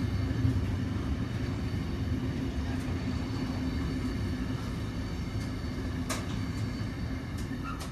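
Intermodal freight train wagons rolling past: a steady rumble of steel wheels on rail, with a sharp click about six seconds in. The sound eases off a little near the end as the last wagons go by.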